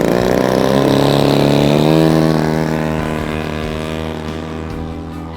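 Desert Aircraft DA-120 twin-cylinder two-stroke gas engine and propeller of a giant-scale Extreme Flight Yak 54 RC plane, running at high throttle as the plane flies past. It holds a steady pitch, is loudest about two seconds in, then fades as the plane moves away.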